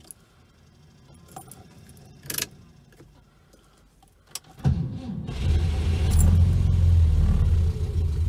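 Keys clicking in the ignition, then the Škoda 120's rear-mounted four-cylinder engine cranks and catches on the first attempt about halfway through. It settles into a steady, loud cold idle after standing unused for a month and a half.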